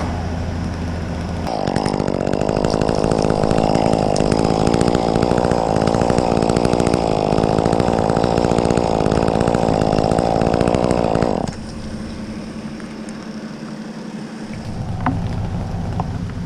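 Chainsaw running at high revs for about ten seconds, cutting through a small treetop, starting about a second and a half in and cutting off suddenly. A steady low engine hum runs underneath.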